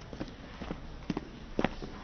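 Scattered light taps and knocks at irregular intervals over a steady low hall hum, with the sharpest knock about a second and a half in.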